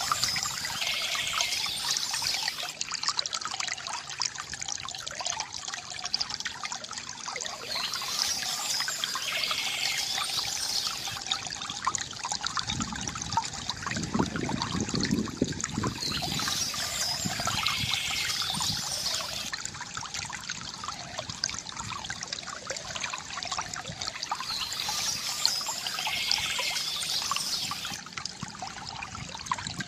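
Water trickling and gurgling steadily from a bamboo fountain, with a deeper splashing that swells briefly about halfway through. Birds chirp over it in short spells that come back about every eight or nine seconds.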